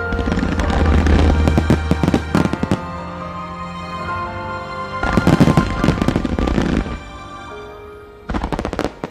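A fireworks finale barrage: dense volleys of bangs and crackling from fans of comets and mines fired along a wide front, with a deep rumble in the first couple of seconds. The volleys come in three clusters, the last one short and near the end, over a song playing throughout.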